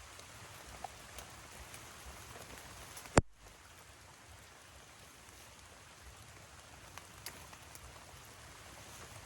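Steady hiss of light rain with a few scattered drips, and one sharp, loud click about three seconds in.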